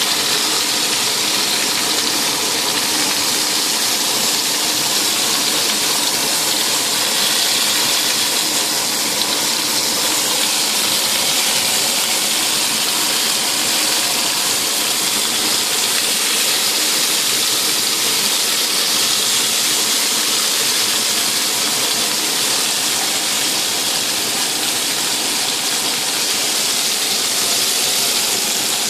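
Vegetable skewers and a slice of aubergine sizzling in hot oil in a frying pan: a steady, even hiss that does not let up.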